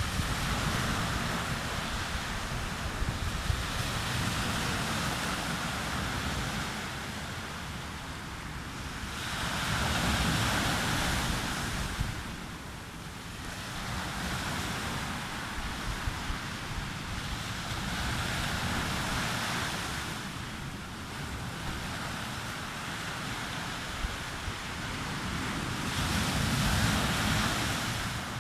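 Sea waves breaking on a beach, the surf swelling and ebbing about every eight to ten seconds, with wind rumbling on the microphone.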